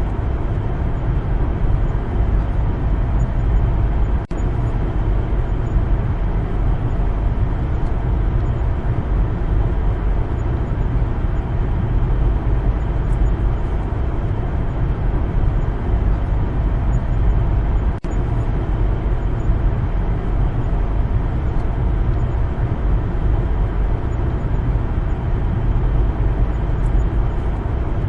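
Car driving along a road: a steady low rumble of tyres and engine, with two very brief dips in level, about four seconds in and again about eighteen seconds in.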